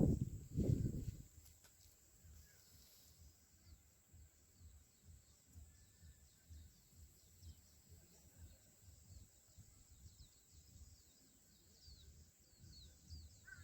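Faint outdoor ambience with a low rumble and faint high bird chirps that come more often near the end, after about a second of louder noise at the start.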